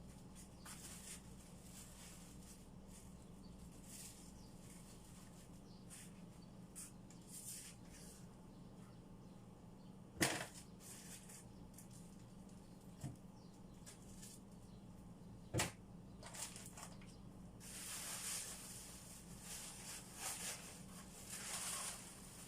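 Faint handling noises over a steady low hum: two sharp knocks, one about ten seconds in and one about fifteen and a half seconds in, then several seconds of rustling near the end.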